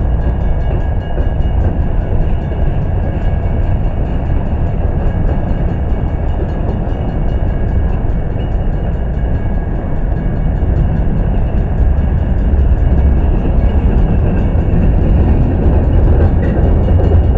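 Mixed freight train's covered hoppers and boxcars rolling past, a loud, steady rumble of steel wheels on rail.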